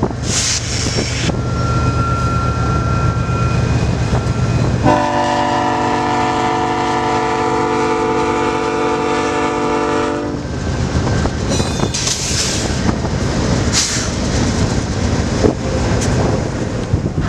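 Diesel freight locomotives rumbling past, with one long blast of a locomotive's several-note air horn about five seconds in, lasting about five seconds. After the horn the train's rumble continues, mixed with noise.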